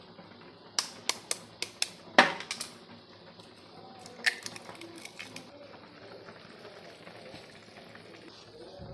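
Metal utensil clicking and knocking against a pan while vegetables are stir-fried: a quick run of sharp clicks about a second in, the loudest about two seconds in, then a few more around four to five seconds in.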